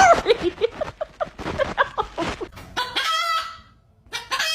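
Pet parrot imitating a chicken: a quick run of short clucks, then two longer wavering crowing calls near the end.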